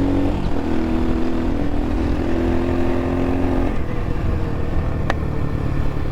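X-Pro Templar X 250 dirt bike engine running under way, its note held steady, then easing off a little past halfway to a lower, rougher note. A short sharp click comes about five seconds in.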